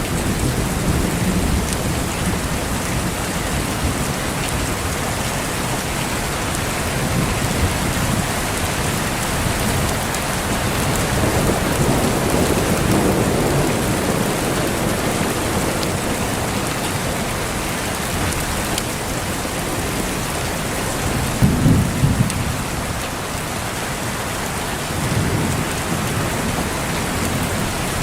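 Steady heavy rain with rolling thunder: low rumbles swell several times, the loudest and sharpest crack about three quarters of the way through.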